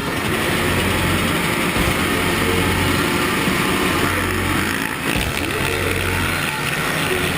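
Motocross motorcycle engines running.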